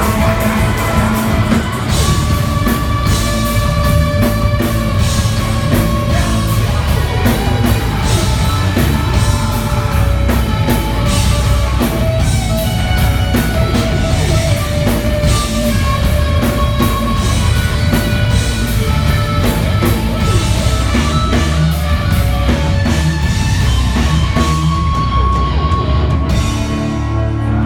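Live heavy rock band playing loudly in a concert hall, with drum kit and distorted electric guitars. No vocals stand out; the high end of the sound thins out near the end.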